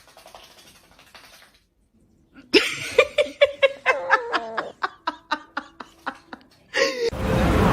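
A person laughing: a run of short, high-pitched bursts about three a second, lasting some four seconds. Near the end a louder, steady noise cuts in suddenly.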